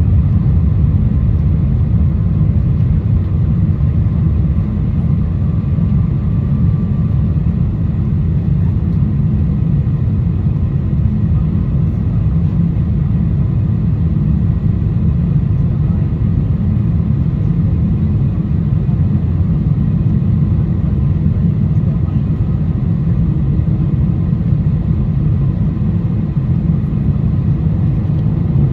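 Steady, even low roar inside the economy cabin of a Boeing 747-400 climbing after takeoff: engines at climb thrust and airflow over the fuselage.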